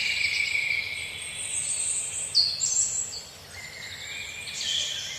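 Several birds chirping and singing over one another, high-pitched, with a faint steady background noise.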